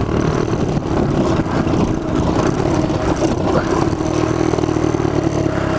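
Small single-cylinder mini bike engine running steadily under throttle, heard up close, with some rattle.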